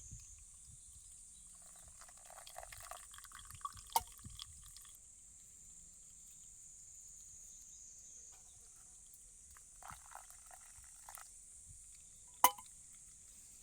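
Two spells of small clinking and rattling, each with a sharp click, the second click about 12 seconds in being the loudest, over a steady high hiss.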